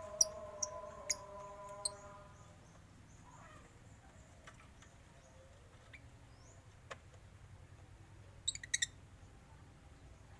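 Cage birds chirping: a few sharp, high chirps in the first two seconds and a quick run of chirps about eight and a half seconds in. A steady lower tone sounds under the first chirps and fades out about two seconds in.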